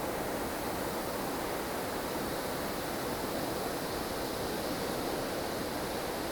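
Strong wind of a blustery snowstorm blowing as a steady, even rush of noise, fullest in the low-middle range, with no gusts or separate sounds standing out.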